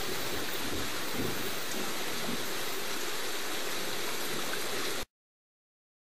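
Steady rain falling: an even, continuous hiss that cuts off abruptly about five seconds in.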